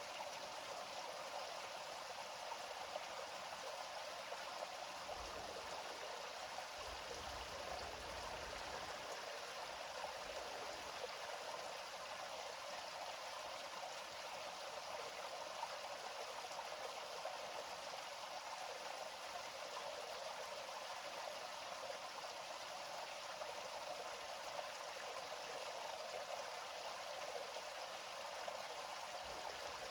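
Flowing river water, a steady rushing and babbling that keeps an even level throughout, with almost no deep rumble.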